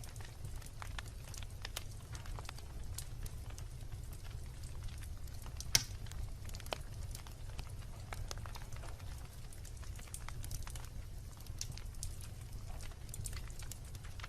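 Wood bonfire crackling: frequent sharp pops and snaps at irregular intervals, with one louder snap about six seconds in, over a steady low rumble of the burning fire.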